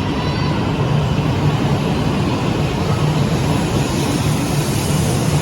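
Steady rumble and rushing noise of a Shinkansen bullet train running, holding level without building or fading.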